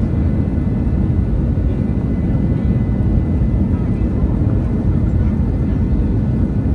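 Airbus A321neo jet noise: a steady low rumble with no sudden changes, and a faint steady high tone over it.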